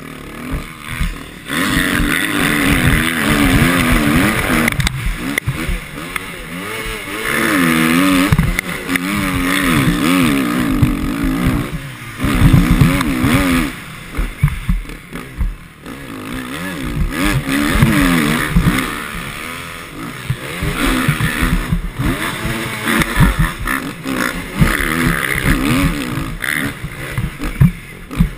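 Motocross bike engine revving hard and easing off again and again, its pitch rising and falling with the throttle. There are several brief drops where the throttle is shut off.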